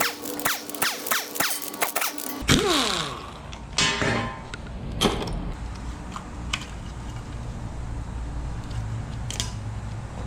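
A small motorised hand tool running with quick squeaky chirps, then winding down in pitch about two and a half seconds in. After that a low steady hum, with a few separate metal clunks and knocks as engine parts are handled.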